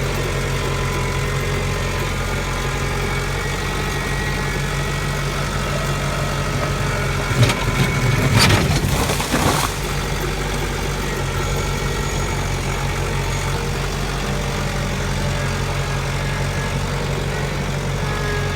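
An engine idling steadily throughout. About seven and a half seconds in, a loud burst of knocks and crashes lasts about two seconds over the running engine.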